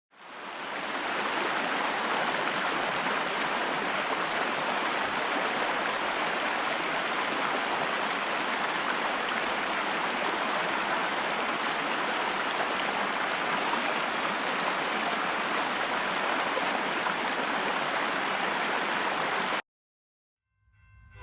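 A steady rushing noise, even and unchanging, that fades in at the start and cuts off abruptly near the end.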